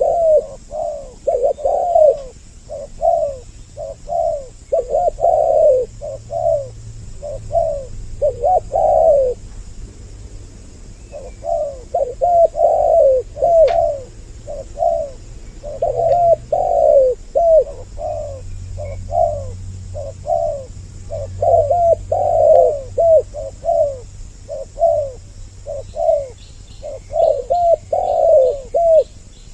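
Spotted doves (tekukur) cooing over and over, two birds' calls overlapping as a male-and-female lure call, with a brief lull about ten seconds in. Faint high chirps from another small bird come in near the end.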